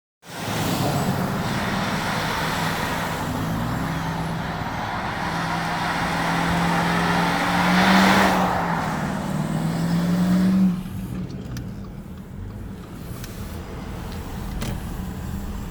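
Truck engine revving hard and held at high revs as the truck peels out, with a broad rushing noise over it and the loudest surge about eight seconds in. It drops off suddenly after about eleven seconds, leaving quieter street traffic.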